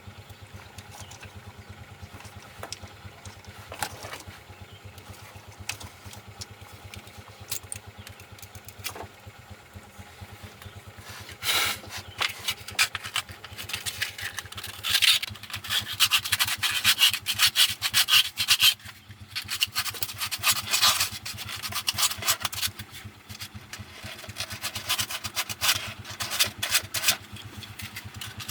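Engine idling steadily with a low hum. From about eleven seconds in, rapid scraping strokes sound over it, as of a hand tool being rubbed against a part.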